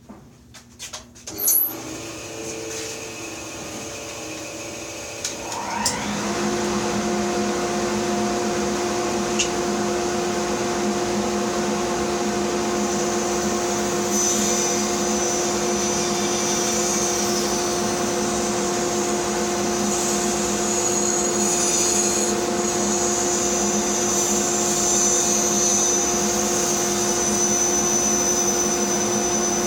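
Bandsaw switched on with a click, its motor spinning up over a few seconds to a steady running hum. From about halfway a higher hiss comes and goes, the fine-toothed blade cutting through the wood block.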